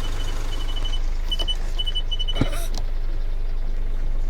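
Vehicle engine idling with a steady low hum. Over it, a high-pitched electronic beep repeats in short, uneven pulses and stops about two and a half seconds in, at about the same moment as a single knock.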